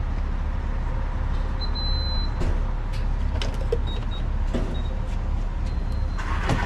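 A car driving, with a steady low rumble of engine and road noise and a few light clicks and rattles.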